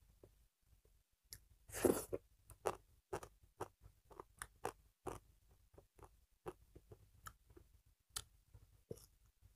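Close-miked chewing and mouth sounds of a person eating rice and dal by hand: a string of short wet smacks and clicks, with one louder noisy burst about two seconds in.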